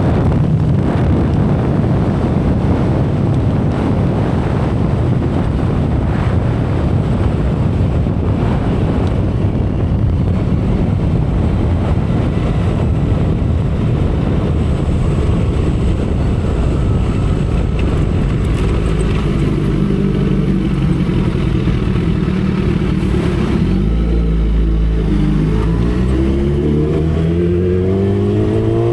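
2012 Kawasaki Ninja ZX-10R's inline-four engine running at speed under a heavy rush of wind. Late on the wind noise thins, the engine note drops, and then it rises steadily as the bike accelerates.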